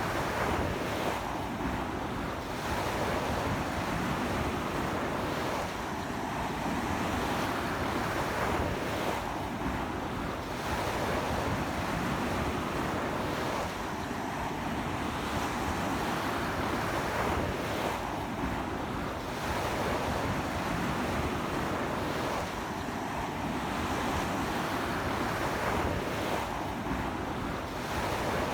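Sea waves washing continuously onto a beach in strong wind, the surf swelling and easing every few seconds, with wind buffeting the microphone.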